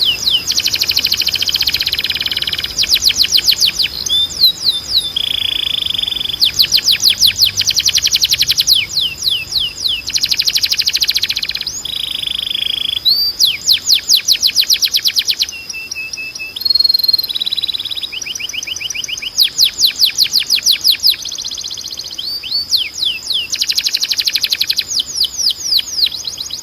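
Timbrado canary singing a string of fast rolling trills, each a rapid run of one repeated note lasting a second or two, switching to a new note type from trill to trill. A steady high tone runs beneath the song.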